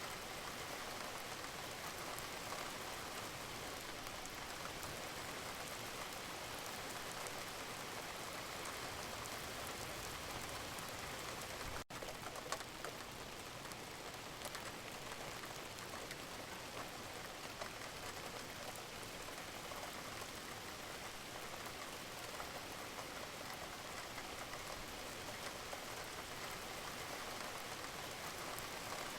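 Steady rain falling, a continuous hiss dotted with the fine patter of individual drops, with a momentary break about twelve seconds in.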